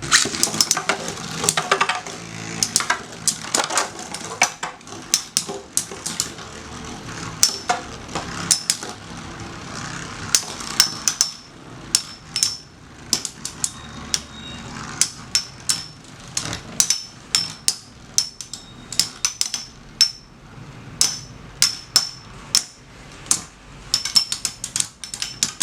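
Three Metal Fight Beyblade spinning tops (Lightning L-Drago, Storm Pegasus and Rock Leone) whirring in a stadium and clashing over and over, with sharp metal clacks coming a few times a second.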